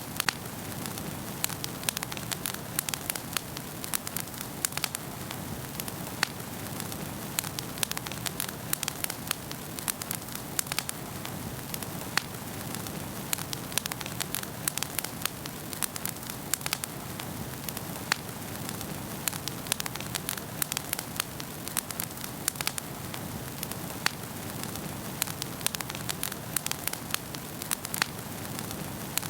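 Wood fire crackling in a fireplace: many sharp, irregular pops and snaps over a steady low hiss of burning.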